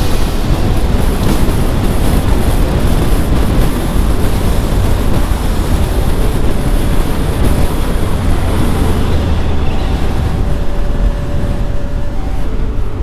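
Steady wind rushing over the microphone, with the engine of a 2023 Triumph Tiger 1200 GT Pro running underneath, as the motorcycle travels at road speed.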